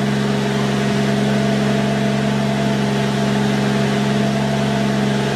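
Turbocharged Mercedes 300TE engine idling steadily, its idle speed held by a Megasquirt-controlled idle air control valve.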